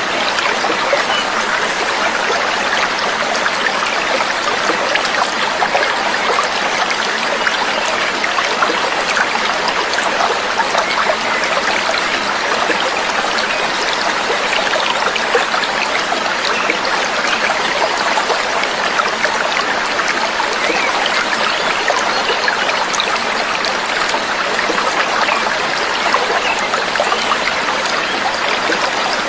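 Steady babbling, trickling water, like a small stream, with no birdsong.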